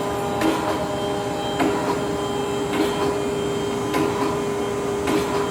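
Mitsui-Seiki MSG-250H2AH hydraulic surface grinder running with its spindle and hydraulics on: a steady humming drone with a held tone, and a light knock repeating about once a second.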